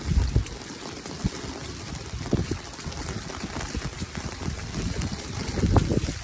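Rushing floodwater, a steady noisy wash, with wind buffeting the microphone in low irregular thumps.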